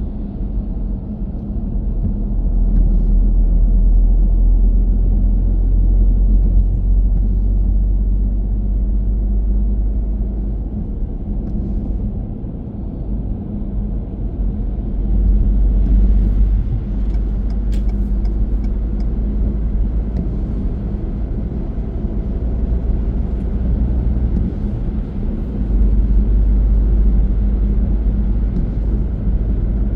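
Car driving along the road: a steady low rumble of engine and tyre noise that swells and eases gently, with a few faint ticks just past the middle.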